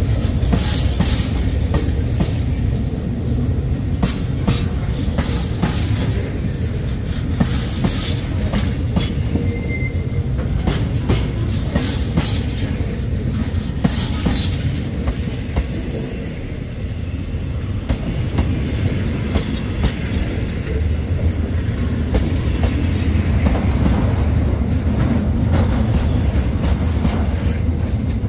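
Thai passenger train running on the track: a steady low rumble with wheels clicking over the rail and short high screeches now and then.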